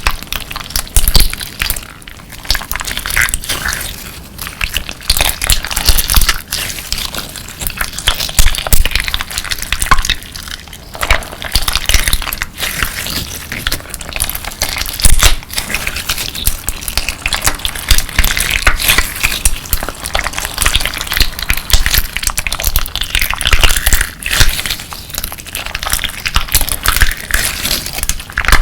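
Hands squeezing and kneading clear slime packed with crunchy crystal pieces, giving a dense, unbroken run of crackles and clicks.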